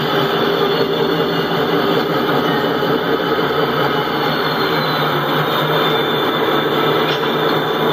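Trains running: a loud, steady, noisy rolling sound with a faint low hum in it.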